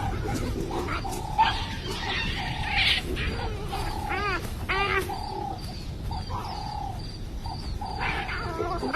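Olive baboon troop calling: repeated short pitched calls, with two sharper arching cries about four to five seconds in.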